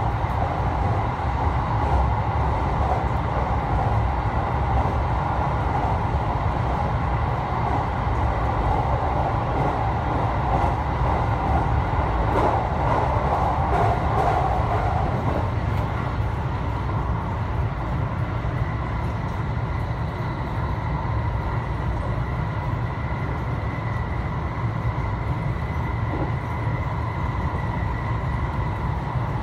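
Interior running noise of a JR West 207 series electric commuter train travelling at speed: a steady low rumble of wheels on rail, with a faint steady high whine.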